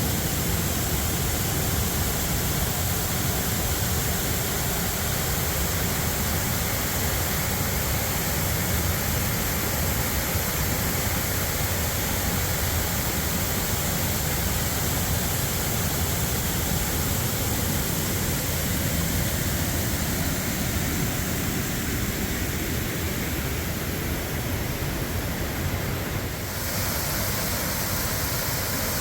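Waterfall in high flow after a winter thaw and heavy rain, its full veil of water pouring down in a steady, loud rush. The sound shifts slightly near the end.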